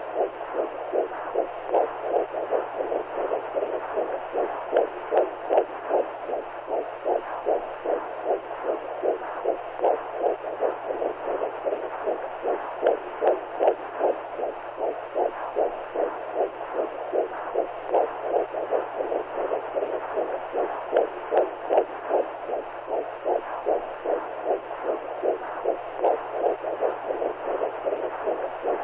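Womb sound: a muffled heartbeat pulsing as rhythmic whooshes, about two a second, over a steady low hum.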